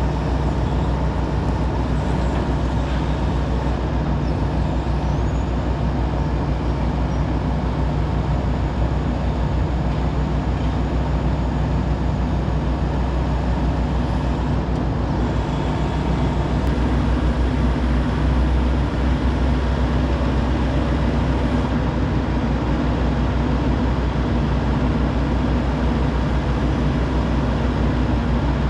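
Hitachi 135 excavator's diesel engine running steadily while the machine is operated, a constant low hum that grows heavier for several seconds in the middle.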